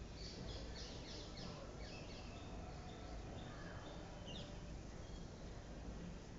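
Steady low background noise with a quick run of short, high bird chirps over the first two seconds, and a single falling call a little past four seconds in.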